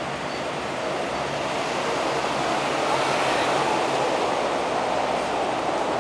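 Train rumbling on the tracks through the station: a steady roar of wheels on rail that swells a little about three seconds in.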